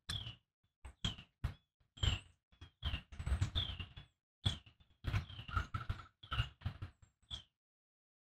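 A person chewing a bite of cooked steak: irregular soft smacks and clicks of the mouth, with short pauses between them.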